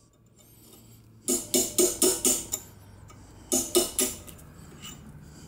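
Small hammer tapping a tiny punch against the remnant of a sheared bolt in a manifold's threaded hole, driving the broken piece out. Two quick runs of light, ringing metal taps, about four a second: five or six, then a short pause and three more.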